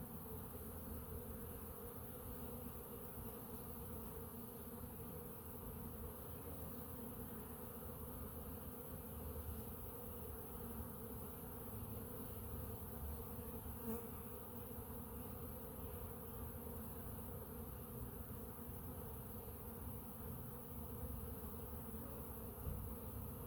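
Honey bees buzzing steadily in a dense swarm of flight at a busy hive entrance, foragers flying in heavy with pollen.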